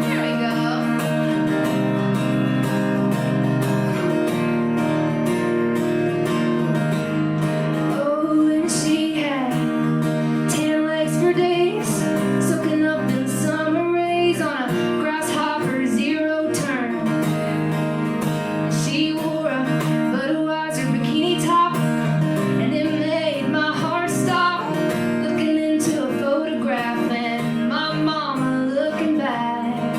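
A woman singing a song live, accompanied by a strummed acoustic guitar.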